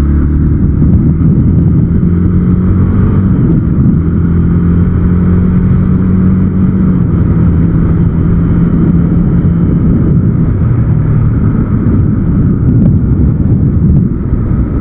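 Motorcycle engine running steadily at road speed with wind and road noise, heard through a helmet-mounted action camera sealed in a waterproof case. The engine's low hum dominates, with only a light rush of wind above it, as the sealed helmet and case keep the wind noise down.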